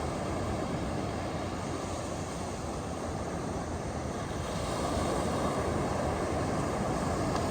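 Ocean surf on a beach: a steady wash of breaking waves that swells louder and brighter about four and a half seconds in as a wave breaks.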